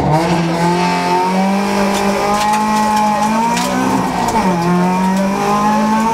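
Honda Civic rally car's four-cylinder engine heard from inside the cabin, accelerating hard away from the stage start. The engine note rises and holds, climbs again about four seconds in, drops abruptly at a gear change and picks up once more.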